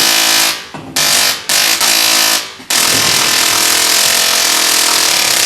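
Tesla coil arcing with a loud, harsh buzz, in choppy bursts at first and then a continuous buzz from about three seconds in.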